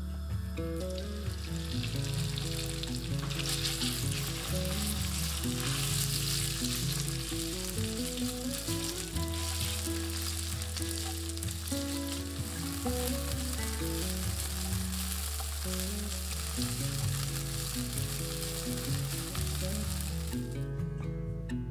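Chicken breast strips sizzling as they fry in hot oil in a nonstick pan, moved about now and then with a spatula. The sizzle swells about three seconds in, once the chicken is in the oil, and stops shortly before the end.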